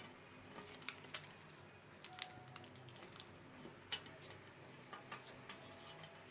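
Faint, scattered snips and rustles of a sheet of paper being cut into four squares.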